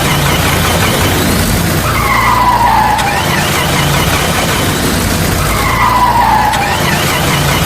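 Cartoon vehicle sound effect: a steady low engine drone under a loud, continuous skidding hiss of wheels spinning, with a falling whine that comes twice, about three and a half seconds apart.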